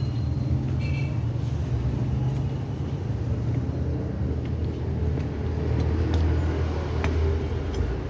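A steady low engine rumble from a motor vehicle running, with a few faint clicks over it; the rumble changes abruptly at the very end.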